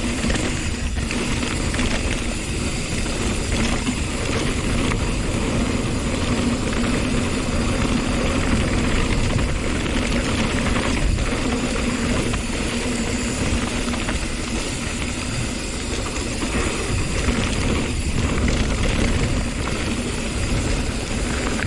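Hardtail mountain bike riding down a rough, rocky trail: a steady rough noise of the tyres rolling over dirt and loose rock and the bike rattling.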